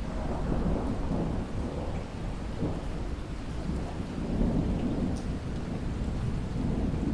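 Steady rain, with a low rolling rumble of thunder that swells in right at the start and keeps rolling in waves.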